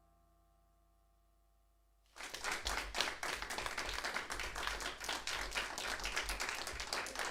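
Audience applause breaking out about two seconds in, after the last faint sustained notes of the electronic music have died away: dense, irregular clapping.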